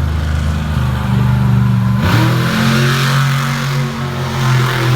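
Monster truck engine running steadily, then revving up about two seconds in and holding at higher revs.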